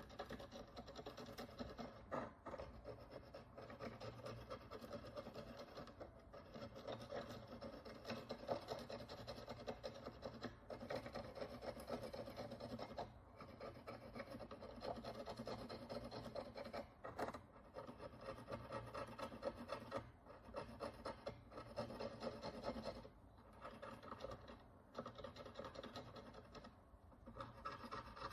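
Faint, steady scratching of a fine tool scraping dirt and oxidation crust off a Roman bronze follis, broken by short pauses every few seconds.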